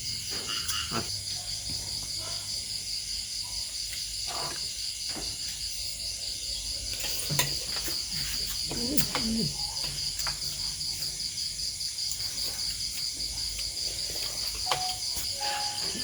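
Steady chorus of insects, a high, evenly pulsing trill, with a few scattered clicks and knocks.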